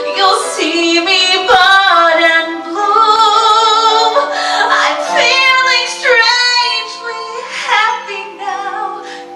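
A woman singing a sustained, vibrato-laden melody over a musical accompaniment, a show-tune ballad from a stage musical.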